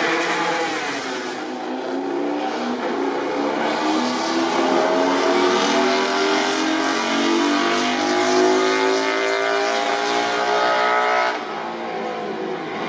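MotoGP racing motorcycle engine accelerating at high revs, its pitch climbing steadily for several seconds before it drops off abruptly about eleven seconds in.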